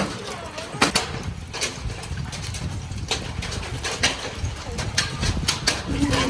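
Hailstones falling and hitting hard surfaces: irregular sharp cracks and knocks, several a second, over a steady hiss.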